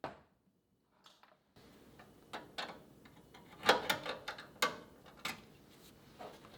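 Irregular light clicks and taps, about eight of them, the loudest a little past halfway.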